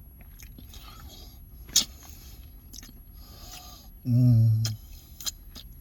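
A person eating, with soft chewing and mouth sounds and a few sharp clicks, and a short closed-mouth hum of enjoyment ("mmm") about four seconds in.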